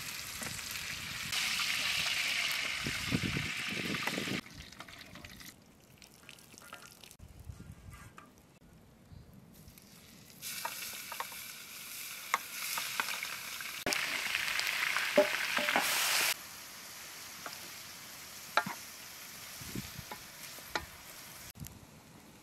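Food sizzling in hot oil in a large cooking pot over a wood fire, in two stretches that start and stop abruptly, the second ending about two-thirds of the way through. Between and after them, quieter scattered clicks and crackles, with the wood fire under the pot crackling near the end.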